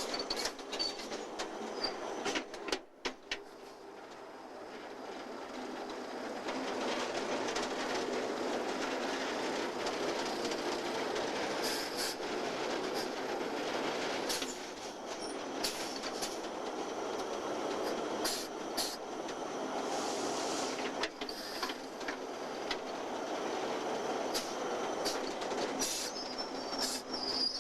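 Train of coal cars rolling along the track behind a locomotive, with wheel clatter, sharp knocks from the cars, and a brief high wheel squeal near the end. The sound builds over the first several seconds as the train draws closer.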